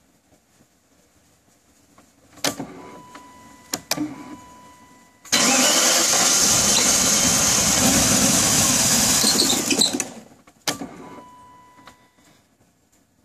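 Starter motor cranking the BMW 840Ci's V8 for about five seconds without it catching, the crank-and-no-start fault. Before it come a few clicks and a steady warning beep, and another click and beep follow after the cranking stops.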